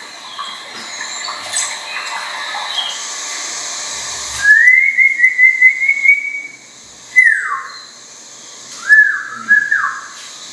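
Fairy pitta calling with clear whistles: a stuttering whistle held level for about two seconds, then a single falling whistle, then a pair of short rising-and-falling notes near the end.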